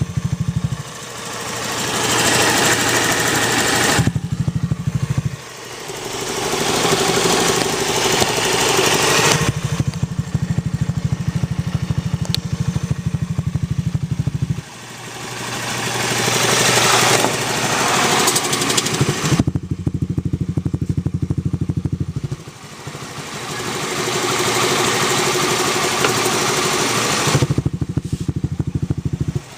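Yamaha Zoomer-X scooter's single-cylinder engine, the one with a clicking noise, alternating between idle and revving. Four times the engine note climbs gradually and then drops back to a low, pulsing idle.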